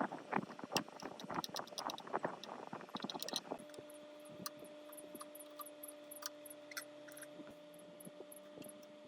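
Hand work on metal parts: a rapid run of knocks and clicks, then from about three and a half seconds in a steady hum with scattered light clicks over it.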